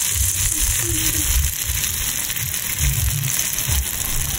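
A hamburger patty sizzling in a cast-iron skillet over a gas camp stove: a steady, dense frying hiss, with an uneven low rumble underneath.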